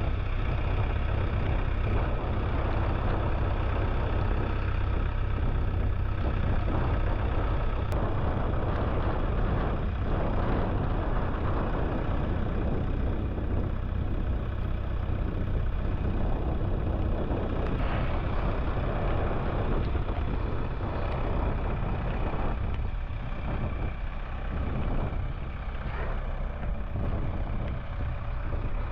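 Tractor engine running steadily with a deep, even drone.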